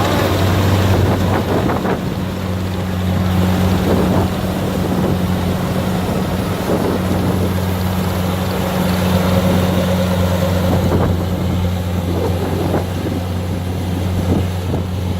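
Kubota DC60 combine harvester running steadily under load, a constant low engine drone, with wind buffeting the microphone.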